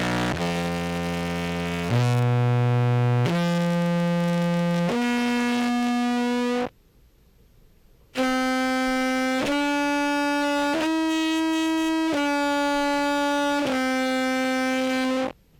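Contrabass clarinet played through a fuzz and compressor pedal chain: a run of long held notes, each about one to one and a half seconds, changing pitch step by step. The notes come in two phrases with a short pause between. The compression is set to even out the notes' sustain and volume, though the G still sounds weaker than the others.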